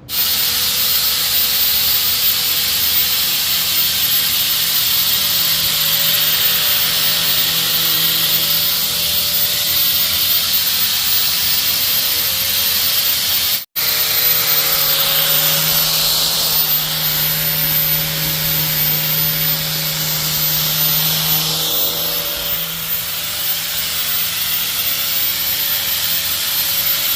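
Loud, steady hiss with a faint steady hum underneath, cut off briefly about halfway through.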